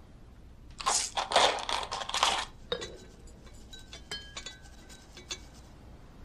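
A burst of rustling or scraping handling noise for about a second and a half. Then comes a run of light clinks, each with a short ringing tone, like crockery or glass being set down.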